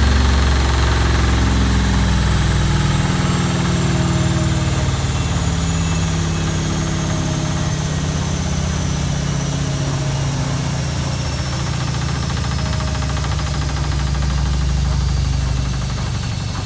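Zanussi ZWF16070W1 washing machine on its final 1600 rpm spin: a loud, steady spin with a heavy low hum and vibration. A high motor whine runs above it and slowly falls in pitch.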